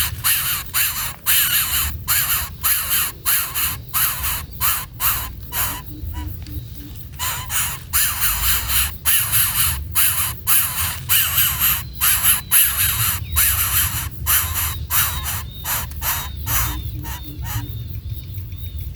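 Birds giving harsh, rasping calls in quick succession, about two or three a second, over a steady low rumble.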